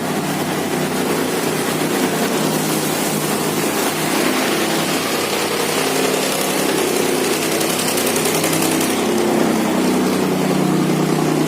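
Boat engines of several river boats running steadily, overlapping one another.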